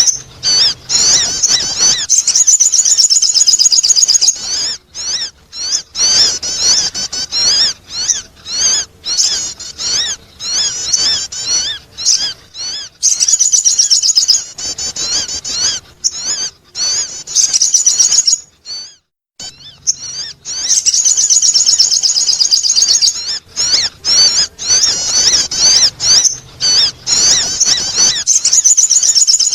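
Sogon bird calling: loud, high, rapidly wavering chirps and trills in long runs, broken by a short pause about nineteen seconds in.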